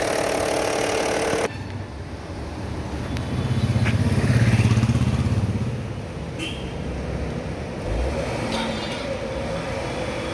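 Engine running. The loud, dense sound breaks off sharply about a second and a half in, then a low, pulsing engine rumble swells and fades over about two seconds near the middle.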